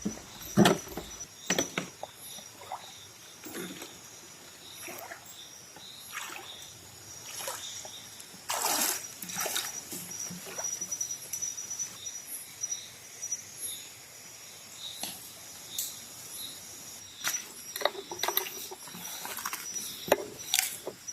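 Scattered splashing and sloshing in shallow water, with short knocks and a louder splash about nine seconds in, over a steady high-pitched insect trill.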